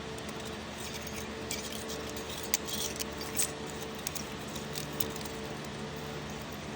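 Light metallic clicks and scrapes of a steel feeler gauge being worked between a K-series VTEC exhaust rocker and cam lobe, scattered through the middle few seconds, over a steady low hum.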